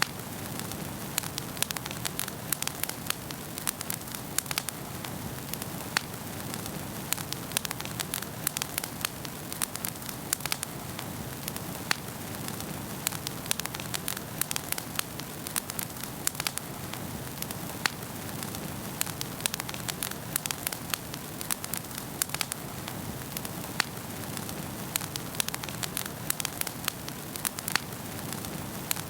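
Wood fire burning in a fireplace, crackling and popping with many sharp, irregular snaps over a steady hiss of the flames.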